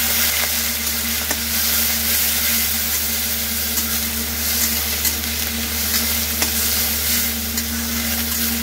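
Grated vegetables sizzling as they fry in hot oil in an iron kadai, with a steady hiss. A metal spatula scrapes and taps against the pan now and then as they are stirred.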